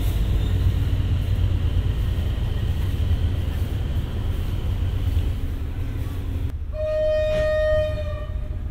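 Steady low rumble of a State Railway of Thailand Rapid train running on the line, heard from on board. About six and a half seconds in, the sound changes abruptly. A single steady tone then sounds for about a second and a half and slides slightly down as it ends.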